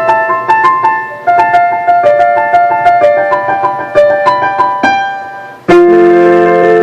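Keyboard playing a quick melody of single notes at about four or five notes a second. Near the end it fades briefly, then cuts abruptly into louder held chords, the next song of a medley starting.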